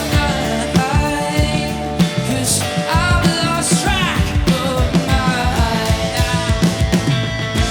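Live rock band playing, with drums keeping a steady beat under a sung vocal line.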